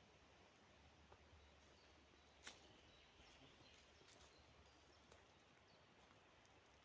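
Near silence: faint steady hiss with a few soft clicks, the sharpest about two and a half seconds in.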